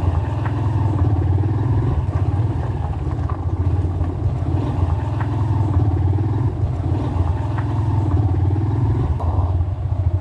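Motorcycle engine running steadily while riding, with a few light clicks and rattles.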